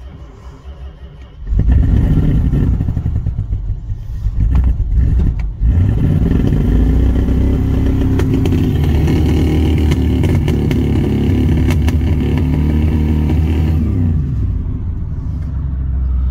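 The 1979 Chrysler New Yorker's V8 starts about a second and a half in and runs unevenly for a few seconds, with a brief dip near the middle. It is then revved up and runs steadily, with its pitch rising and falling, and drops back to a lower idle near the end.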